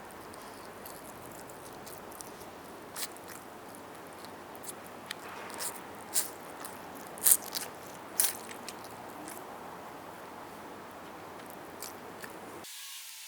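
Close-miked eating of roast chicken: scattered bites, chewing and wet mouth clicks, the loudest about seven and eight seconds in. Near the end the background hiss changes abruptly, as at an edit.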